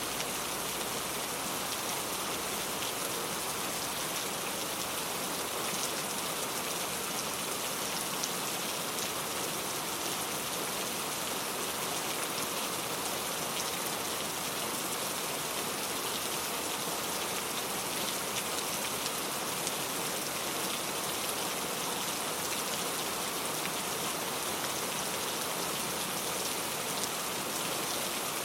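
Steady rain falling, an even hiss with the fine ticks of drops hitting a surface.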